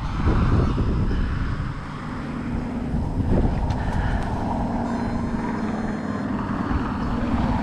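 A steady engine drone over a low rumble, the drone coming in about two and a half seconds in.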